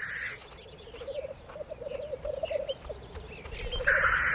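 Male black grouse at a lek: a long, rapid run of short bubbling cooing notes, with a loud hissing call near the end.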